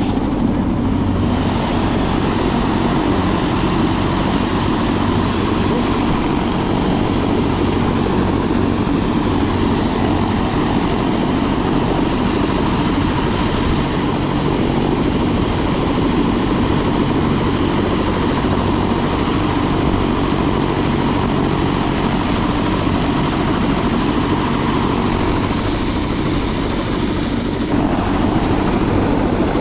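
Helicopter running steadily at close range, its rotor and turbine engine making a loud, unbroken sound.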